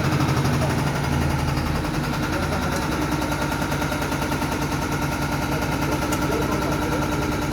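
Diesel injection test bench running a Mercedes Actros unit pump, a steady fast, even rattle of pump strokes over the hum of the bench motor.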